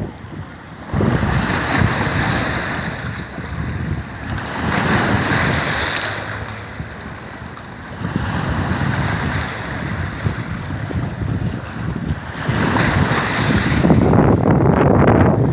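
Choppy Lake Ontario waves breaking along the shore in surges that swell and fade every few seconds, with gusty wind buffeting the microphone.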